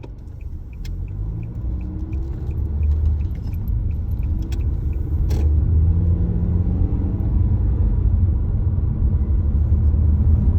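A car running and pulling away, its engine note rising as it speeds up, with a low road rumble that grows louder. A turn-signal indicator ticks about three times a second for the first three seconds or so.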